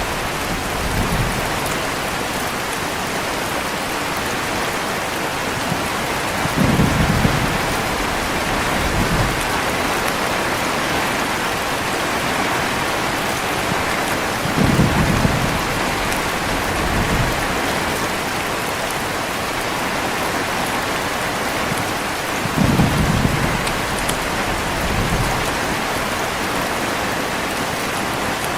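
Steady heavy rain, with short low rumbles of thunder at even spacing about every eight seconds. Each stronger rumble is followed by a weaker one about two seconds later.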